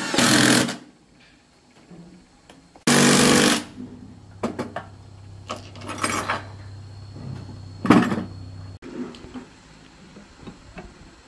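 A machine hums steadily for about six seconds and cuts off suddenly. Two loud hissing bursts come before it, and knocks and clicks sound over it.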